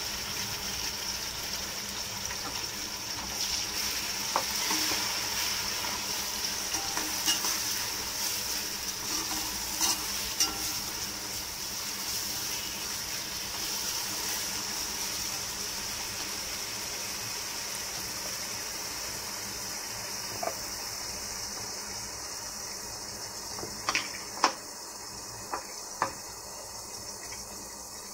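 Ground onion-ginger-garlic masala paste sizzling in hot oil in a steel pot while a metal spatula stirs it, with scattered sharp clinks of the spatula against the pot. The sizzle dies down somewhat in the last few seconds, where the clinks come closest together.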